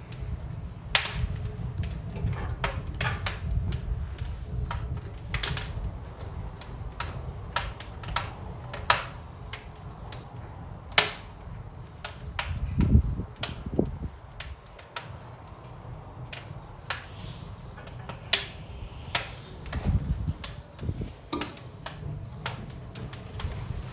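Wood fire burning in an Invicta fireplace, crackling with irregular sharp pops and cracks over a steady low rumble, while the chimney is drawing strongly.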